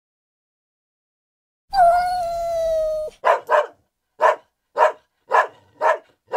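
A single long, held animal cry with a steady, slightly falling pitch, then a dog barking: about seven short barks, roughly two a second.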